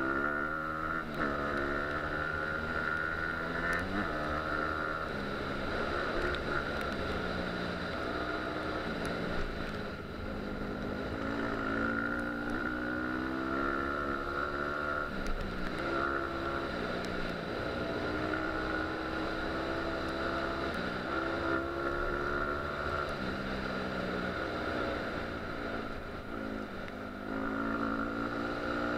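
Dirt bike engine running under load, its pitch climbing and dropping over and over as the throttle is worked, with wind noise.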